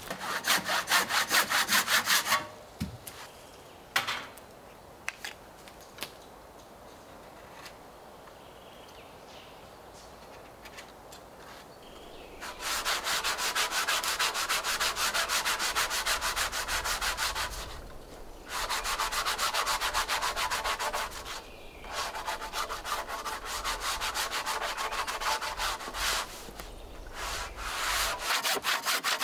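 Rapid back-and-forth scraping strokes in several runs of a few seconds each, with a long quieter stretch between the first run and the rest.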